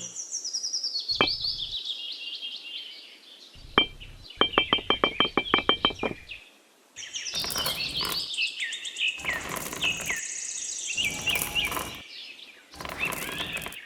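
Small birds chirping and singing: quick high chirps that fall in pitch, with a rapid even trill about four seconds in. The sound cuts out briefly about halfway through, then the chirping resumes.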